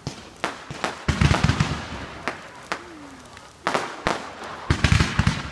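Fireworks going off: a string of sharp bangs, with two clusters of rapid crackling reports about a second in and near the end, each burst trailing off.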